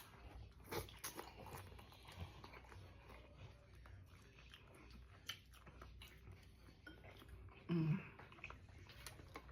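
Close-miked chewing and biting of food, with faint wet mouth clicks and smacks scattered throughout. A brief low hum of voice comes just before the eight-second mark.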